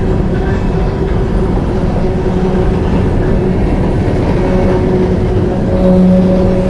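Long coal train rolling by: a steady rumble of wheels on the rails with a low droning hum that swells about six seconds in.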